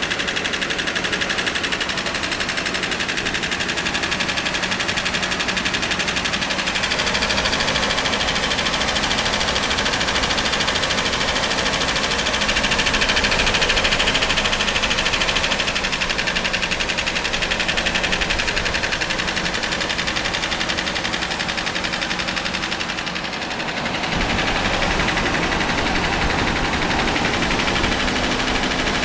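Mercedes-Benz 116.965 4.2-litre V8 engine running steadily, growing a little louder around the middle and dipping briefly about four-fifths of the way through.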